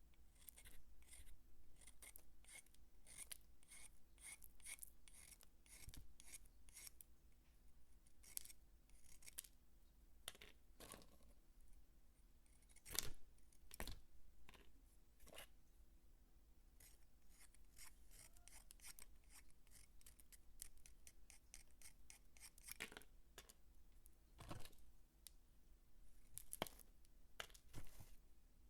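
Dry bar soap being cut and crunched: many quick, crisp crackles and snips, with two louder cracks about halfway through.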